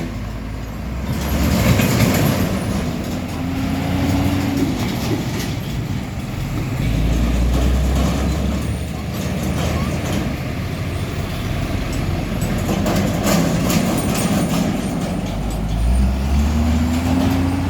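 Heavy diesel trucks driving past with a steady low rumble and road noise, the engine note rising twice as a truck accelerates.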